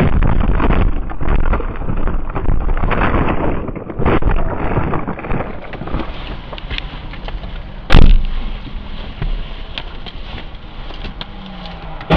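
Road and wind noise of a moving car recorded by a dashcam, with one sharp, loud bang about eight seconds in.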